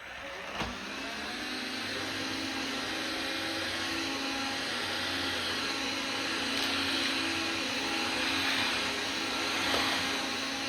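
An electric appliance motor starts, winds up in pitch over about the first second, then runs steadily.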